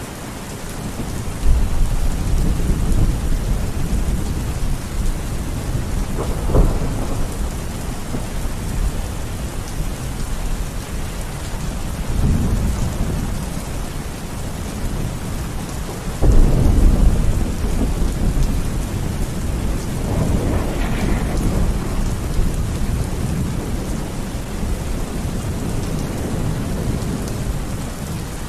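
Steady rain falling, with rolling thunder over it: several low rumbles that swell and fade, a sharper clap about six seconds in and the loudest rumble about sixteen seconds in.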